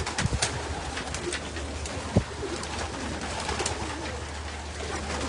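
A flock of racing pigeons cooing in their loft, a steady low murmur under many scattered sharp clicks.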